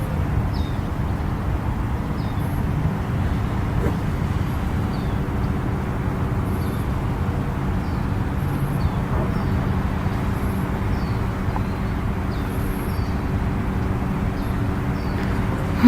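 Steady road-traffic rumble with a low hum, with faint high bird chirps about once a second.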